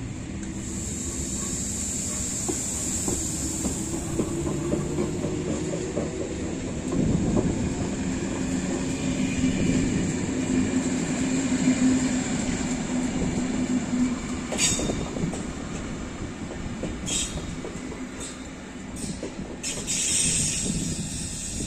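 CFL Z2 electric multiple unit pulling out and rolling past, with a steady low running hum and a high thin whine early on. A few sharp clicks and squeals from the wheels on the rails come in the second half.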